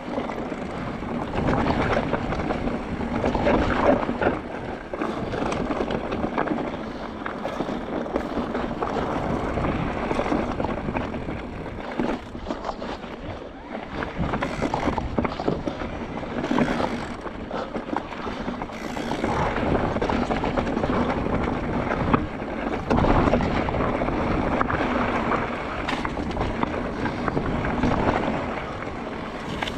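Mondraker Crafty R electric mountain bike descending a rough dirt trail: steady rush of tyres and wind on the microphone, broken by frequent knocks and rattles as the bike hits bumps.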